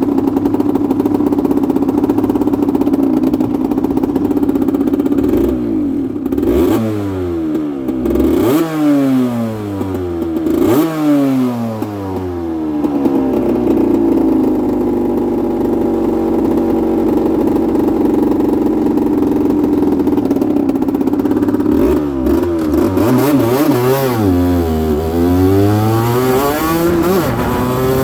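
Aprilia RS125's single-cylinder two-stroke engine running at steady revs, then blipped up and down several times. It settles to steady running again, then is revved up and down repeatedly near the end.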